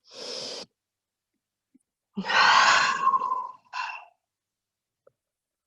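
A person breathing audibly: a short intake of breath, then about two seconds in a long, loud exhale like a sigh, followed by a short breath.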